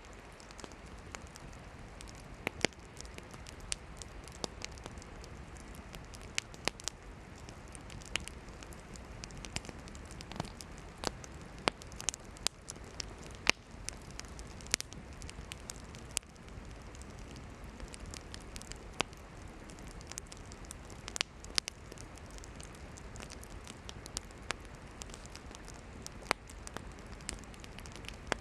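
Campfire of burning firewood crackling and popping, with irregular sharp pops scattered over a steady hiss of the flames.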